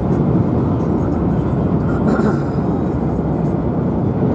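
Steady low rumble of a moving vehicle, an even noise without a clear pitch.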